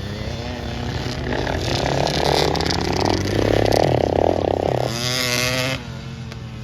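Motocross dirt bike engines running and revving, getting louder, with one sharp high rev about five seconds in that cuts off suddenly.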